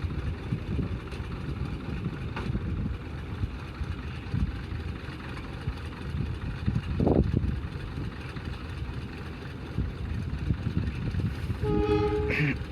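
Low rumble of a train running past, with a brief horn blast a little before the end.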